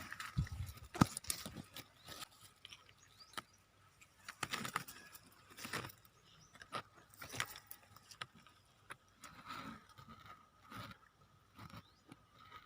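Irregular rustling and crackling of leaves and twigs, with scattered sharp clicks and a few soft thumps.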